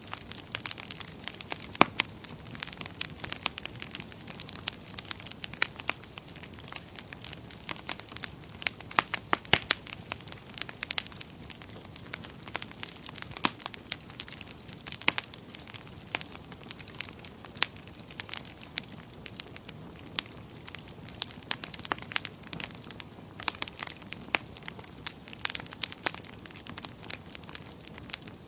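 Wood fire crackling in a fireplace: a constant run of irregular sharp pops and snaps, some much louder than others, over a soft steady low hiss.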